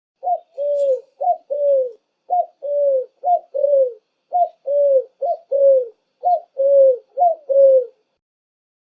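Pigeon cooing: eight two-note coos in a steady rhythm, each a short rising note followed by a longer falling one.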